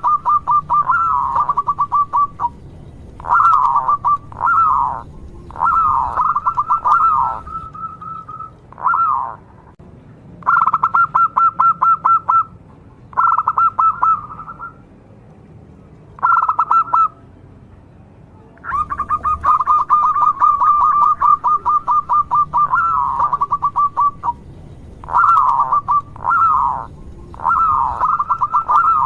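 Local zebra dove (perkutut) singing in full voice: phrase after phrase of fast, rattling cooing notes, each phrase lasting one to three seconds with short pauses between, and a longer unbroken run about two-thirds of the way through.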